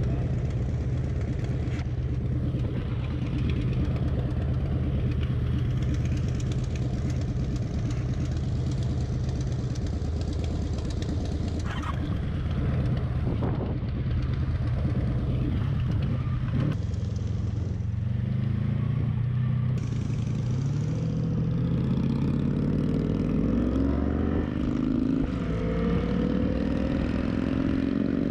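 Motorcycle engine running steadily while riding, then accelerating from about two-thirds of the way through, its pitch rising steadily until it drops at the very end.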